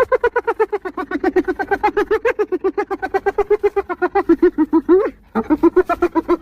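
Spotted hyena giggling: a rapid run of short, high, yelping notes, about ten a second. The run breaks off about five seconds in, and a new run starts a moment later.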